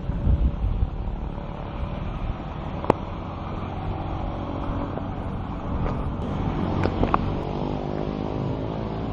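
Diesel train running with a steady low rumble. There are a few sharp clicks about three and seven seconds in, and the engine's tone grows stronger in the second half.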